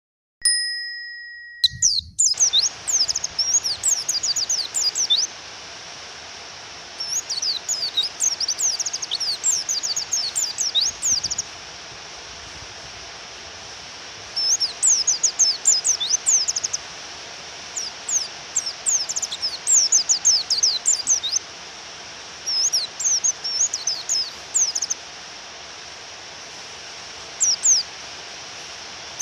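Female white-eye (pleci) calling in rapid bursts of high chirps: phrases of a few seconds with short pauses between, the kind of call used to provoke a male into singing. A steady hiss of rain runs underneath, and a brief electronic tone sounds just before the birds begin.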